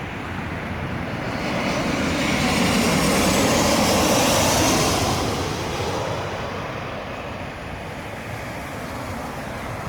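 Jet airliner's engines passing close by: a roar with a high whine that swells to a peak about four seconds in, then fades away.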